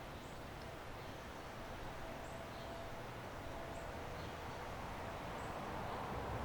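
Residential backyard ambience: a steady hiss of wind and distant city noise that swells slightly near the end, with faint high bird chirps about once a second.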